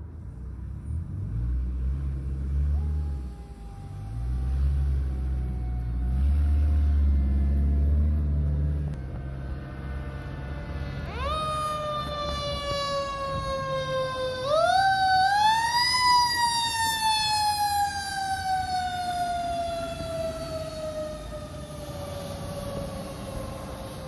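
Heavy diesel rumble of fire apparatus for the first several seconds, then a mechanical siren winds up sharply twice, about eleven and fifteen seconds in, and coasts slowly down in pitch.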